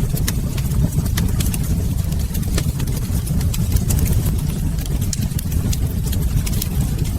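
Wood fire crackling in a fireplace: a steady low rumble of the flames with frequent sharp, irregular pops and crackles.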